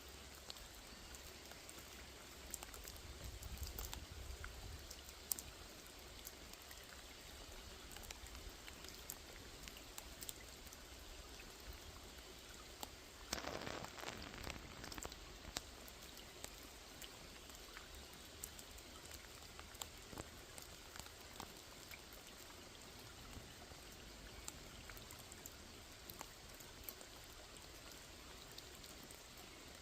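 Light rain falling: a faint steady hiss with many separate drops ticking, and a brief louder rush of noise about halfway through.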